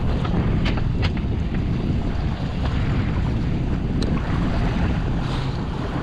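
Boat motor running steadily at trolling speed, with wind buffeting the microphone and water sounds. There are a few light clicks about a second in and again near the middle.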